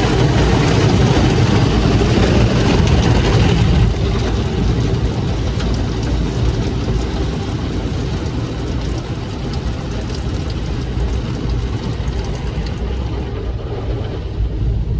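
Steady, loud mechanical rumble that drops in level about four seconds in and runs on more quietly.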